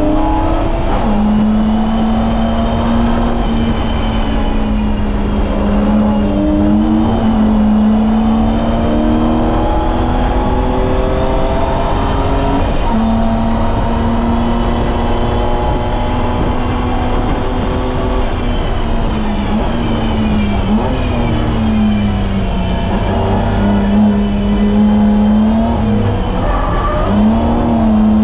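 BMW E30's M20B25 2.5-litre straight-six running hard at track speed, its pitch holding, then climbing and dropping again several times with throttle and gear changes. A constant low rumble of road and tyre noise runs underneath.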